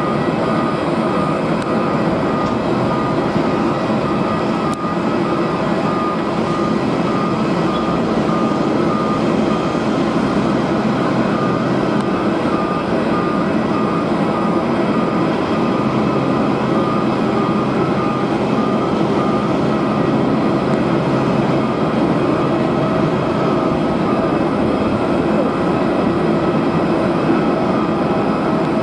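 Steady noise of jet aircraft engines at an airport, with strong wind buffeting the microphone. A high electronic beep repeats at an even pace through much of it, fading after the midpoint.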